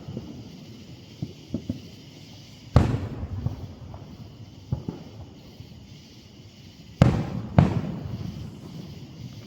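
Fireworks going off: three loud booms, about three seconds in and twice in quick succession near the end, each trailing off in a rumble, with smaller pops between them.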